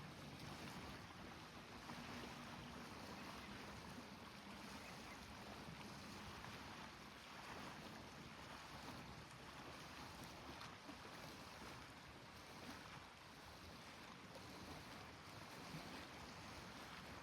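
Faint, steady rushing noise of wind and water at a shoreline.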